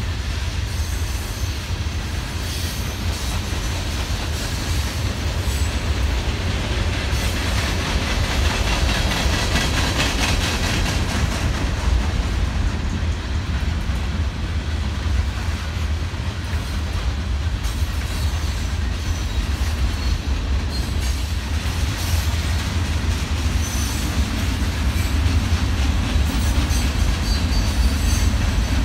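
Freight train of hopper and tank cars rolling past close by: a steady rumble and rattle of steel wheels on the rails, with a faint high wheel squeal now and then.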